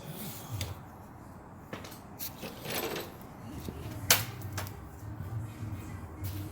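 A few scattered metal clanks and knocks of tools being handled, with one sharp knock about four seconds in, over a low steady hum.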